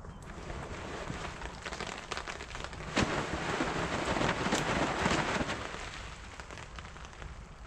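Rain pattering, building to a heavier spell with a sharp tap about three seconds in, then easing off.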